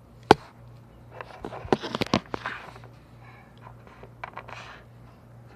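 Small clicks and knocks of things being handled: one sharp click just after the start, then a short run of light knocks and rustles about two seconds in, over a faint steady hum.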